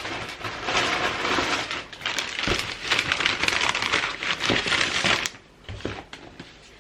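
Gift-wrapping paper being handled and crinkled, a dense crackling rustle with sharp crackles for about five seconds, then a few lighter taps and rustles.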